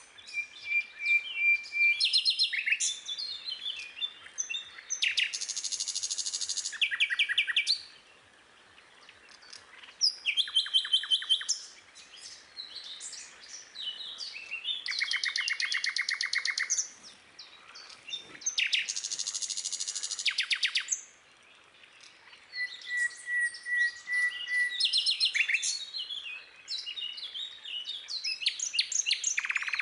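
Several songbirds singing and chirping, with long fast trills and short steady whistled notes, broken by a few brief pauses.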